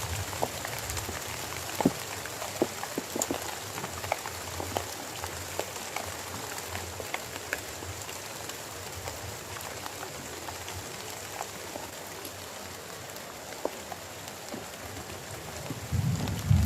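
Steady rainfall with scattered individual drops ticking sharply on a nearby surface. Near the end a low rumble of thunder begins to build.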